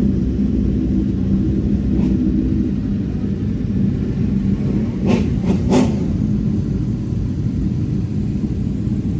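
Superbike engines running steadily at idle. There are two brief sharp sounds about five and six seconds in.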